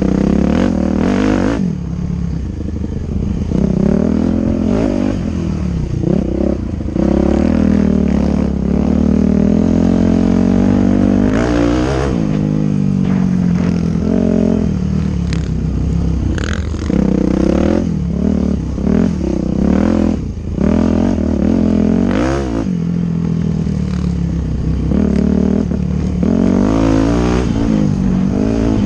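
Dirt bike engine accelerating and easing off again and again, its pitch climbing and dropping every few seconds, with some rattling.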